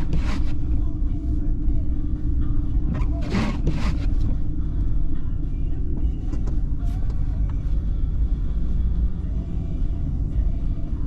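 Steady low rumble of a car's engine and tyres heard from inside the cabin while driving, with two brief swishing noises, one at the start and one about three and a half seconds in.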